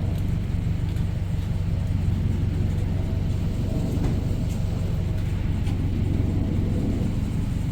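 Flatbed tow truck's engine running steadily at low speed, a constant low hum.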